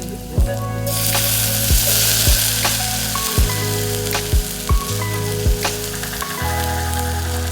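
Food frying and sizzling in a pan, the sizzle loudest in the first few seconds, over background music with held low notes and a steady beat.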